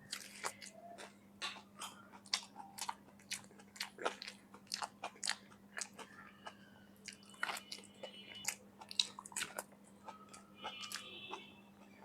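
Close-up crunching and chewing of raw vegetables: a quick, irregular run of sharp bites and crunches.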